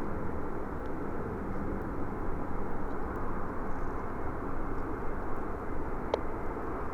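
An arriving jet airliner's engines: a steady rushing drone.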